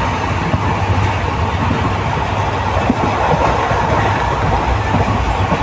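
Passenger train running along the track: a steady rumble of wheels on rails with a continuous mid-pitched rushing noise.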